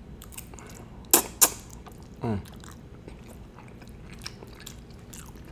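Close-miked chewing and mouth sounds of someone eating spaghetti. Two sharp clicks come a little over a second in, and a short falling "mm" hum follows about a second later.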